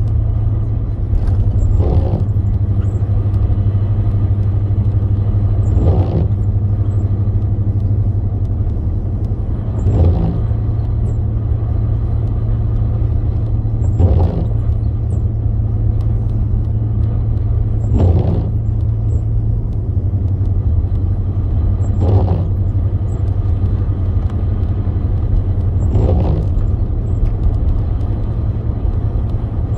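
Car cabin road and engine drone, steady and low, while driving on a snowy highway. Windshield wipers swish across the glass about every four seconds.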